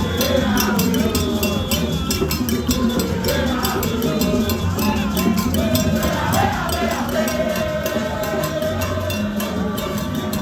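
Demonstrators' singing with a fast, steady percussion beat of sharp strikes, about five a second.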